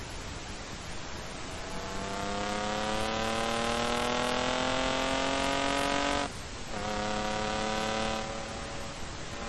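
Car engine under hard acceleration, its note rising steadily for about four seconds, then a brief cut on a gearshift. It picks up again at a lower pitch and eases off near the end, over a steady wind and road hiss.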